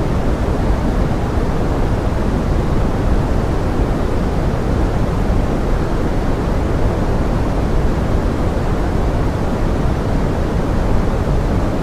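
Steady pink-noise forest rain: an even, deep hiss that does not change.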